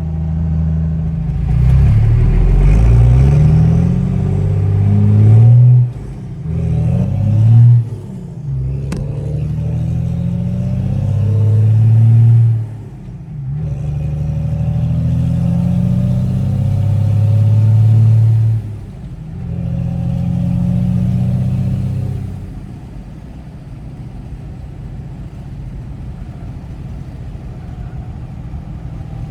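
Old pickup truck's engine accelerating while driving, rising in pitch and dropping back with each of about four gear changes, then settling to a steadier, quieter run near the end.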